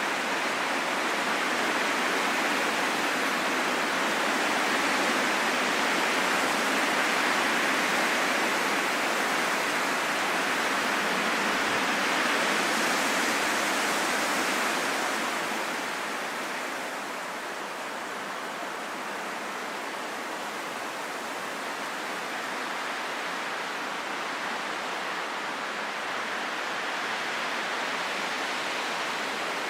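Steady rushing wind with no howl or whistle, swelling gently and then easing to a lower level about halfway through.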